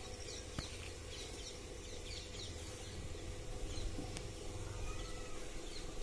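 Small birds chirping: quick runs of high, short chirps in the first couple of seconds and again around four seconds, with a lower whistled call near five seconds, over a steady low rumble.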